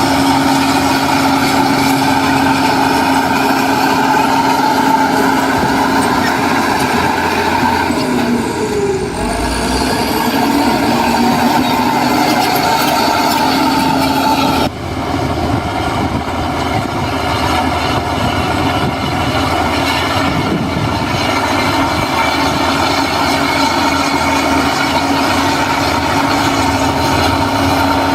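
Heavy diesel earthmoving machinery running steadily, its engine note dipping and sliding in pitch briefly about nine seconds in. The sound breaks off abruptly about halfway through into a similar steady engine sound.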